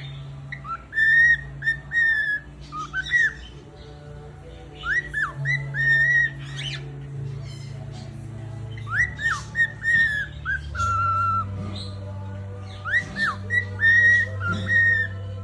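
A parrot whistling a short tune of rising and falling notes, repeated in groups several times. Low sustained background music plays under it, its notes shifting about twice.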